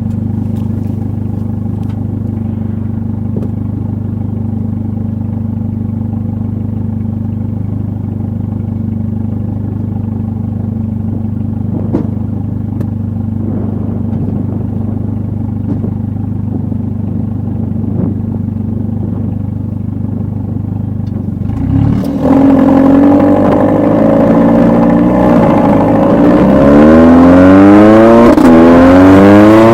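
Mercedes-AMG GLA 45 turbocharged four-cylinder engine and exhaust idling steadily for about twenty seconds, then getting louder as the revs climb and drop back several times.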